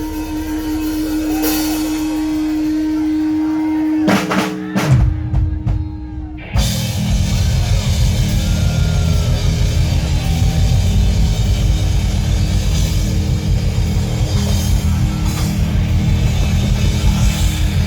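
Live rock band playing loud over a PA. A steady held note gives way, about four seconds in, to a few separate drum hits, then the full band with drums and cymbals comes in at about six and a half seconds.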